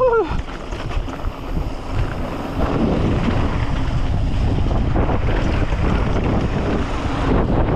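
Wind rushing over the microphone of a mountain bike riding fast downhill, with the rumble and small knocks of the tyres on a dirt trail underneath. A short shout of "woo" at the very start.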